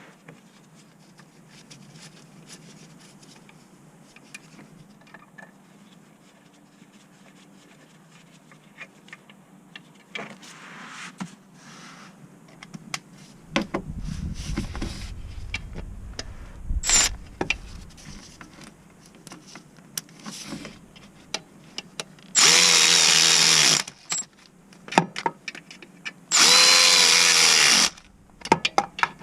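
A cordless power tool runs in two bursts of about a second and a half each, late on, its motor whine rising as it spins up. Between them are scattered clinks and knocks of tools and parts, with a low rumble in the middle.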